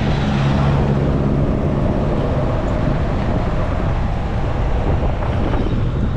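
Car driving along a road: steady engine and tyre noise, with a low hum that fades out about a second and a half in.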